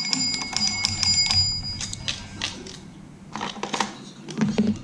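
Small metal bell on a Fisher-Price Little People toy barn ringing out after being struck, its tone dying away within the first two seconds. Then light clicks and knocks of plastic toy parts being handled.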